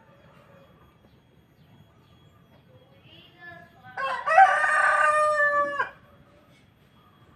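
A rooster crowing once, a loud call of about two seconds starting about four seconds in, ending with a sharp downward drop.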